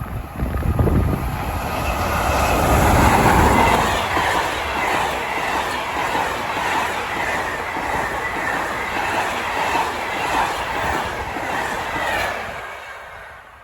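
A train passing at speed: a heavy rumble as the head of the train goes by, then wheels clattering over rail joints for several seconds, fading away near the end.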